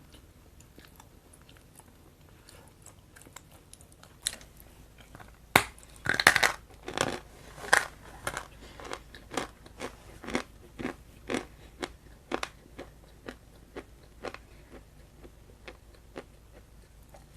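Close-up sound of a person biting and chewing a moist, crumbly mouthful, with crisp crunches. The chewing starts about four seconds in, is loudest over the first few bites, then settles into a steady pace of about two chews a second.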